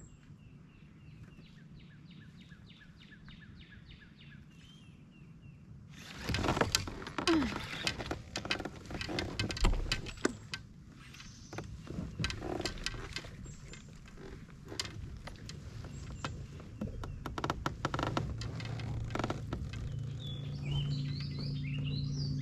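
A bird calls with a quick run of repeated chirps, then from about six seconds in comes a long stretch of clicks, knocks and clatter, the loudest part. A low hum and more bird calls come in near the end.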